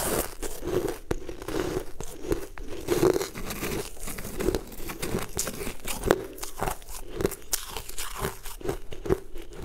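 Crunching and chewing of frost-covered frozen cubes, a steady crunch about every two-thirds of a second.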